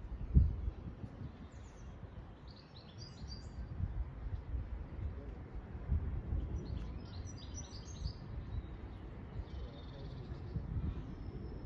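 Small birds chirping in short bursts, twice, over an uneven low rumble, with one low thump about half a second in that is the loudest sound.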